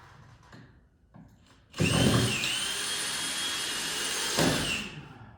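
Cordless drill driving a long screw at an angle (toe-screwing) into wood framing: about three seconds of steady motor whine that sags briefly in pitch under load soon after starting, with a surge near the end before it stops.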